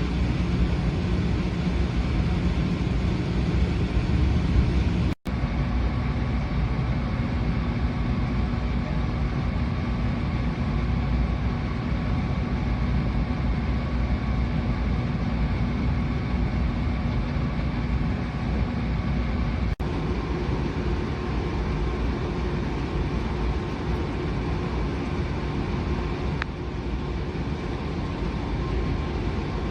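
Steady running noise of a train heard from inside a carriage: a continuous rumble with a low hum, broken off for an instant twice, about five and twenty seconds in.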